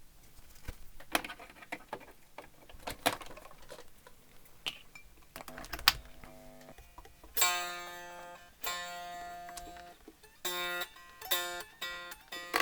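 Clicks and knocks of the jack plug and handling, then the Fender Starcaster's single remaining string plucked through the amplifier several times, each note ringing and dying away. It is a test of the newly fitted output jack socket, and the guitar is sounding through the amp again.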